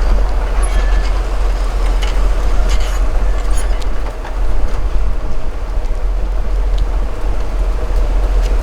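Steady riding noise from a motorbike on the move: a deep wind rumble on the microphone over a continuous road and engine hiss, with a few faint rattles.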